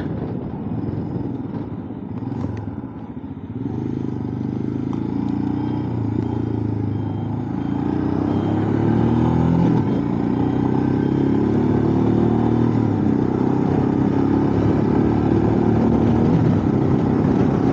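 Motorcycle engine accelerating up through the gears, its pitch climbing in several runs with short breaks at the gear changes, under wind rushing over a helmet-mounted microphone.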